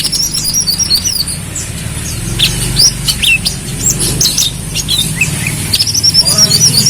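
A sunbird (kolibri kelapa) singing: quick high twittering chirps and warbled phrases, with a steady low hum underneath.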